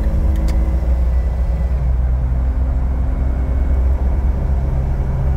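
The 4.0-litre inline-six of a 2006 Jeep Wrangler Rubicon running under light throttle as the Jeep drives uphill, heard from inside the hardtop cabin as a steady low rumble. Its engine note shifts about two seconds in.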